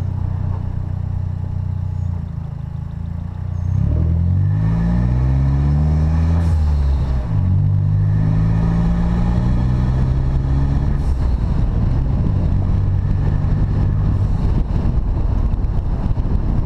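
The turbocharged 1.4-litre four-cylinder of a 2012 Chevrolet Sonic, fitted with an aftermarket intake and a resonator-only exhaust, pulling through the gears. The engine holds a steady note, then its revs climb, drop at a gear change, climb again, and settle into a steadier run.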